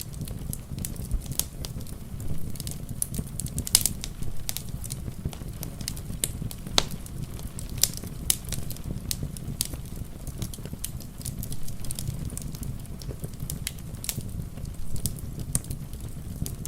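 Wood fire crackling in a fireplace: irregular sharp pops and snaps, the loudest about four and seven seconds in, over a low steady rumble of the flames.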